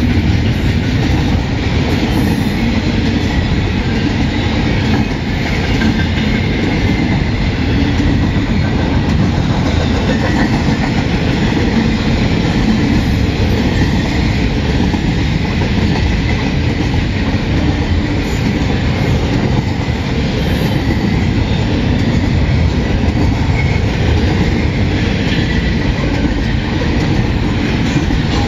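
Double-stack intermodal container train rolling past: a steady rumble and clatter of loaded well cars, their wheels running on the rails.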